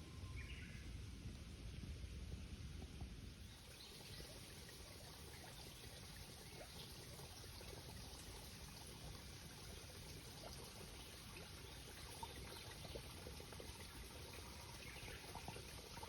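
Faint outdoor ambience: a steady rushing hiss with fine crackle, under a low rumble for the first few seconds. A short bird chirp comes near the start and another near the end.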